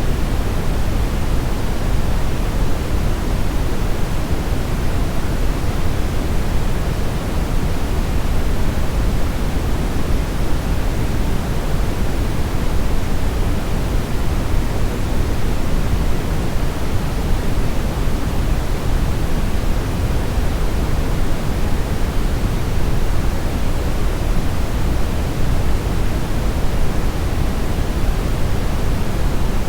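Steady brown noise: a deep, even rumbling hiss, strongest in the bass and rolling off toward the highs, without any change.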